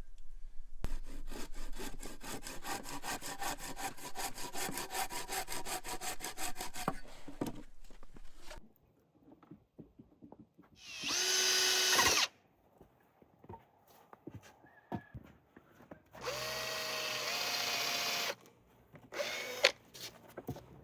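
Power drill at work: about eight seconds of fast, even, rhythmic running, then three short runs of whining, each a few steady pitches that step up or down, the longest about two seconds.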